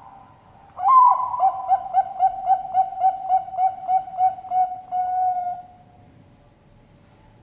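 A Bangkok-bred zebra dove (perkutut) sings its full cooing song. A higher opening note comes about a second in, then a quick run of about a dozen short coos at roughly three a second, ending in one held note.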